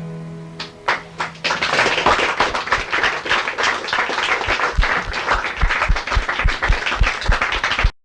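The last acoustic guitar chord rings and fades out while a live audience starts clapping: a few single claps at first, then full applause. In the second half, low thumps about three a second run under the clapping, and the recording cuts off abruptly near the end.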